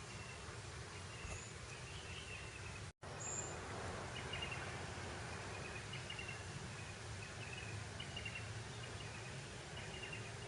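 Grassland ambience: a steady breeze hiss with short high chirps repeating about every second. The sound cuts out completely for a split second about three seconds in.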